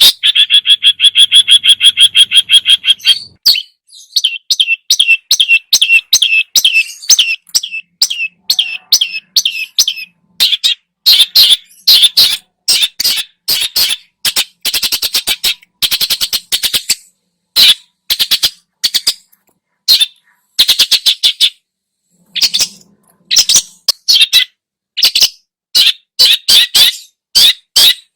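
Long-tailed shrike (cendet) singing loudly in rapid chattering bursts of sharp notes, a repertoire full of mimicked calls of other birds. It opens with a fast rattling trill about three seconds long, and short pauses break the bursts a few times.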